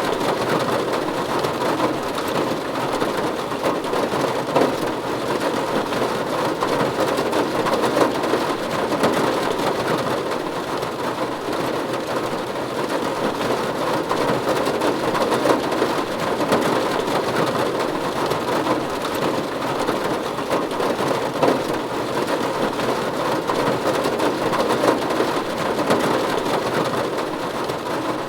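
Steady rain falling on a roof: an even hiss of countless drops that holds level throughout.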